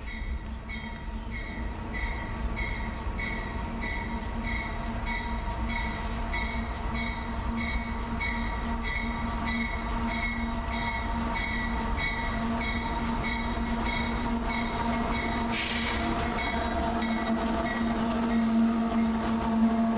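Diesel freight train approaching and growing steadily louder, its locomotive engines humming, while a grade crossing bell dings about twice a second. A brief hiss comes about three quarters of the way in.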